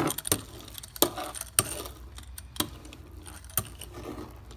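Laminating roller worked over resin-wet fiberglass chop strand mat to squeeze out air bubbles, its rolling rattle broken by sharp, irregular clicks about once a second.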